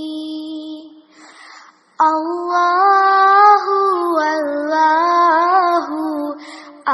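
A high voice singing a naat without accompaniment: a held note fades out, a breath follows, and about two seconds in the refrain 'Allahu, Allahu' begins with a wavering, ornamented melody.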